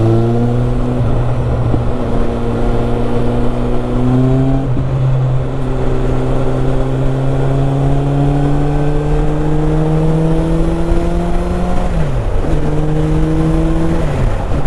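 Suzuki GSX650F's inline-four engine pulling steadily, its note climbing slowly for most of the stretch, then dropping sharply twice near the end as the revs fall. A constant low wind rush sits under it.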